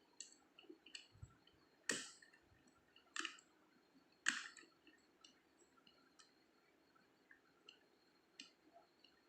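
Faint metallic clicks and ticks of a wafer pick tool working the wafers inside a safe lock. Three sharper, louder clicks come about two, three and four seconds in.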